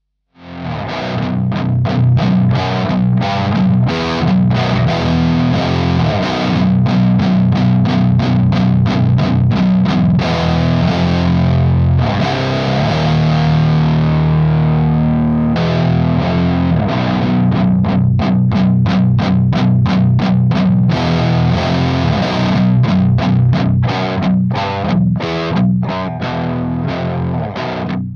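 Electric guitar tuned to B standard with passive pickups, played through a Frost Giant Electronics The Mountain pedal in overdrive mode into a Sunn Beta Lead amp. It plays a heavy, rapid chugging riff, broken by a held distorted chord about halfway through.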